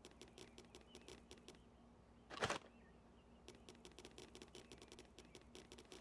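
Faint, rapid clicking in near silence, with one short burst of noise about two and a half seconds in.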